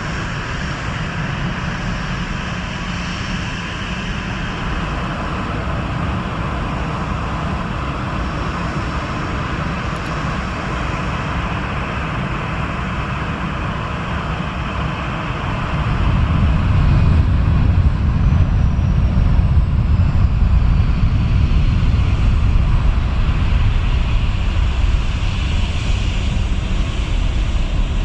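Jet engine noise of a Boeing 747-8 freighter at takeoff power. It is a steady noise that grows louder about sixteen seconds in, when a deep rumble comes in.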